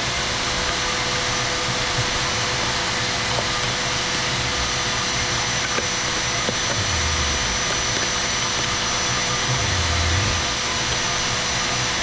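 Vacuum running steadily with a faint high whine as it sucks debris out of a trench cut in a concrete slab.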